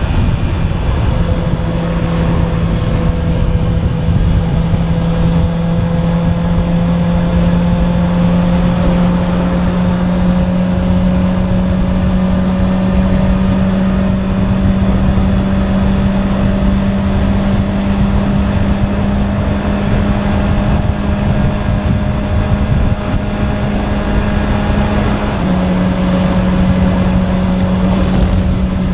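Honda CB650R's inline-four with an Akrapovic exhaust under way at a steady throttle. The engine note climbs slowly as the bike gathers speed and drops quickly at two quickshifter upshifts, one just after the start and one about 25 seconds in, with wind rushing on the microphone.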